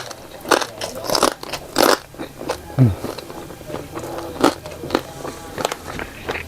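A person biting and chewing crunchy food close to the microphone, in irregular crunches, with a brief low falling sound about three seconds in.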